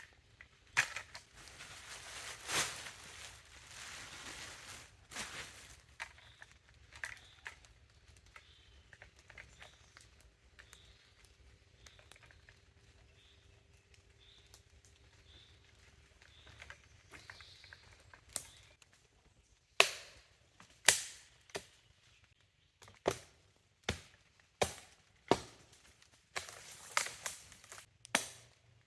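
Rustling and crunching of forest litter, then a run of about a dozen sharp wooden strikes roughly a second apart in the second half, typical of chopping wood for a log shelter.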